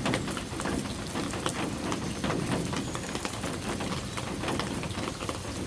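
Steady rain falling, with many separate drops ticking over a constant hiss.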